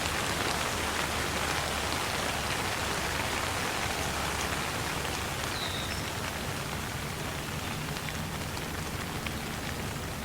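Steady rain falling, a dense patter of drops that eases slightly toward the end. A single short high chirp sounds about halfway through.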